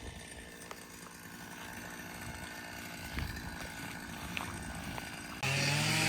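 Steady outdoor background drone with a few faint clicks. About five seconds in it cuts abruptly to a louder steady low hum.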